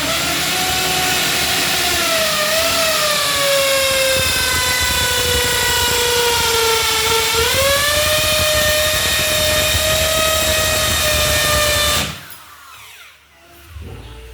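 Handheld electric power tool running continuously with a high motor whine. Its pitch sags gradually as the tool is loaded, climbs back about seven and a half seconds in, and the tool cuts off sharply about twelve seconds in.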